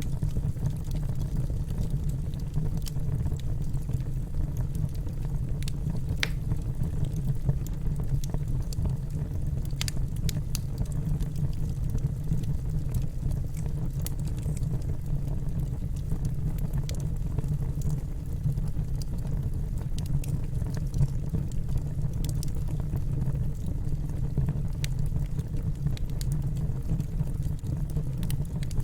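Campfire burning: a steady low rumble of flames with scattered sharp crackles and pops of burning wood.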